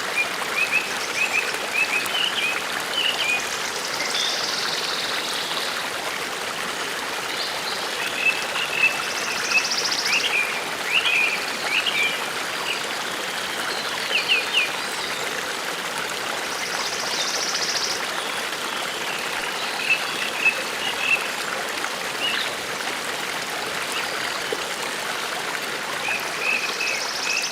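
Forest stream running steadily, with small birds chirping over it in short bursts and a higher call repeating every few seconds.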